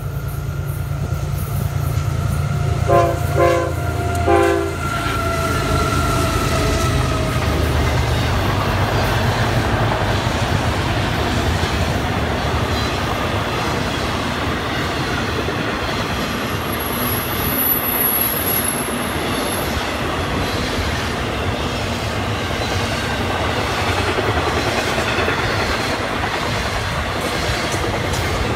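Florida East Coast Railway freight train passing: the lead GE ES44C4 diesel locomotives rumble by and sound two short horn blasts about three and four seconds in. After that the autorack and intermodal container cars roll past with a steady clatter of wheels on rail.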